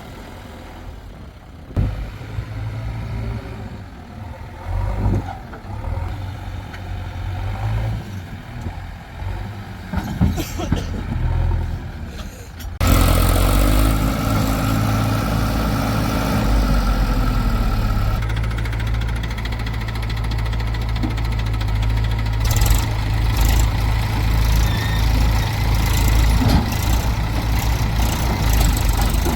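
Heavy diesel machinery engines running, with scattered knocks over the first half. About thirteen seconds in the engine sound becomes abruptly louder and deeper and stays steady.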